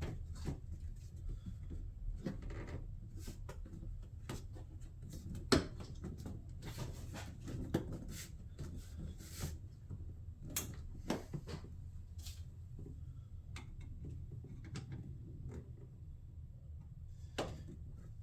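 Hard plastic trim parts being handled and fitted by hand: scattered clicks, taps and light rubbing, with one sharp click about five and a half seconds in, over a low steady hum.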